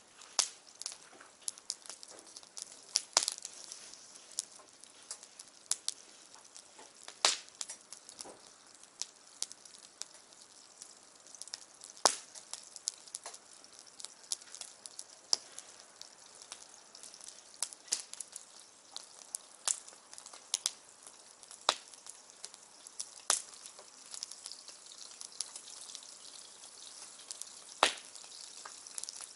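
Wood bonfire crackling: irregular sharp pops and snaps over a steady high hiss.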